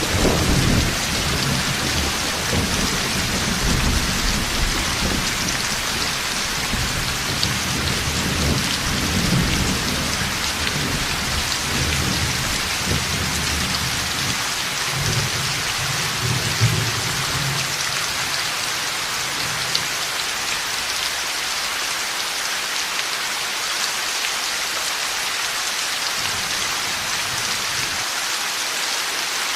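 Heavy rain falling steadily with long rolling thunder rumbling underneath; the thunder dies away about two-thirds of the way through, leaving only the rain.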